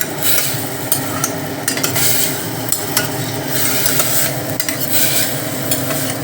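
Masoor dal frying in hot oil in a pressure cooker pot, sizzling steadily, while a spatula stirs it with short scrapes and clicks against the metal.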